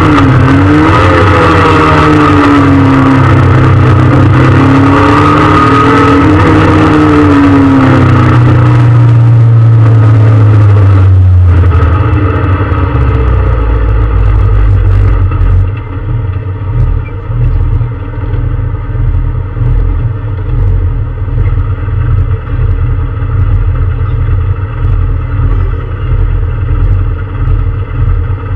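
Peugeot 306 S16 rally car's four-cylinder engine heard from inside the cabin, revving hard with its pitch rising and falling through the gears. About twelve seconds in the revs drop away to a low, uneven rumble as the car slows at the end of the stage and rolls on at low speed.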